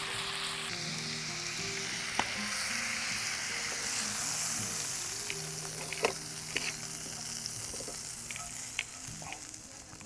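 Meat sizzling as it cooks, a steady hiss with a few sharp pops, fading a little toward the end. Soft background music plays underneath.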